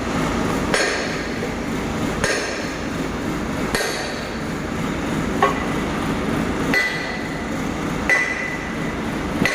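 Hammer blows on steel, repeated about every second and a half, each strike leaving a short metallic ring, over a steady background noise; work on cone crusher parts.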